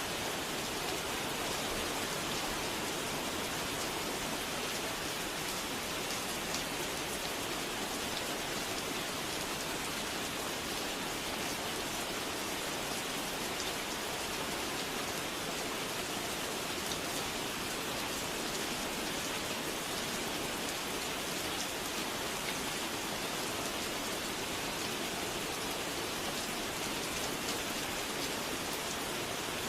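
Steady rain falling, an even hiss of drops that doesn't let up.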